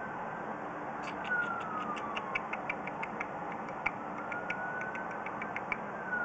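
A distant emergency-vehicle siren wailing, its pitch rising and falling slowly, over a steady background noise. About a second in, a rapid run of small clicks starts, about four or five a second, and lasts almost to the end.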